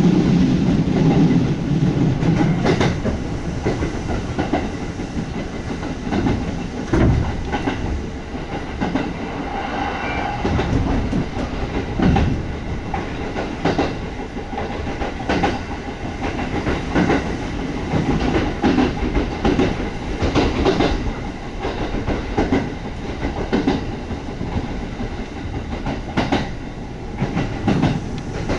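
Kintetsu 1200 series electric train running at speed, heard from inside the car. Its wheels make a steady rumble on the rails, with irregular sharp clicks over rail joints. The low rumble is heavier for the first couple of seconds.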